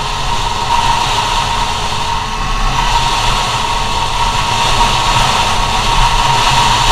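GoPed scooter's small two-stroke CR70 engine running at high, steady revs under way, its high whine held at a constant pitch over rushing noise and a low rumble.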